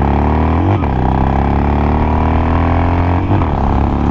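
Harley-Davidson Nightster's 1200 cc air-cooled V-twin accelerating hard. The pitch climbs through the gears, dipping briefly at upshifts about a second in and again near the end.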